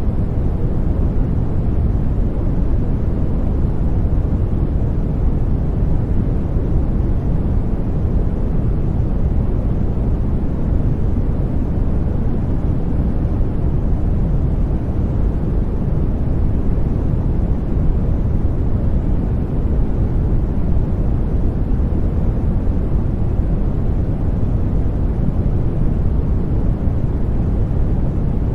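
Steady, deep rushing noise used to lull a baby to sleep, with most of its weight in the low end and no change in level or pitch.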